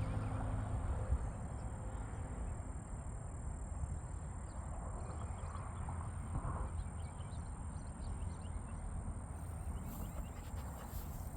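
Outdoor ambience: a steady low rumble with a thin, steady high-pitched whine above it, and faint short high chirps scattered through the middle.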